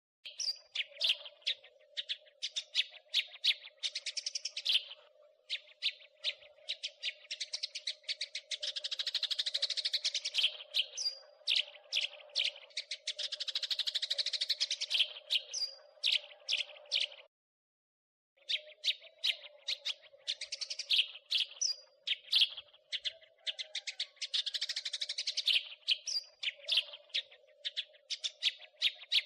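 House sparrows chirping in fast, repeated chirps that run together into long dense chattering bouts twice in the first half. The sound cuts out for about a second just past the middle, then the chirping resumes. A steady low hum lies underneath.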